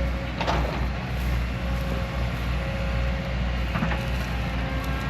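Heavy diesel machinery engine running steadily with a low rumble, with a couple of short metallic clanks about half a second in and again near the end.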